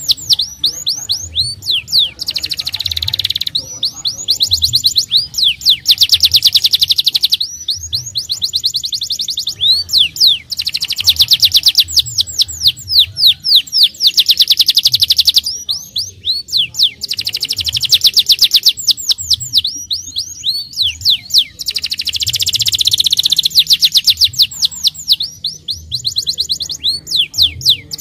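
Domestic canary singing long, fast rolling trills: phrases of rapidly repeated high sweeping notes lasting several seconds each, separated by brief pauses.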